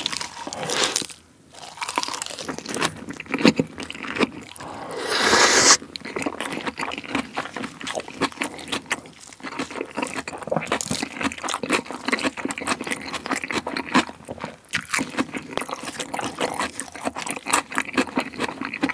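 Close-miked chewing of raw salmon wrapped in crisp lettuce: a dense run of crunches and mouth sounds. There is one louder stretch about five seconds in that cuts off suddenly.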